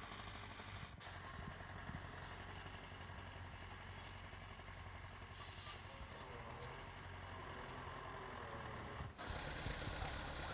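Heavy diesel engine of construction machinery running steadily at a low, even pitch, with a slight change in the sound about nine seconds in.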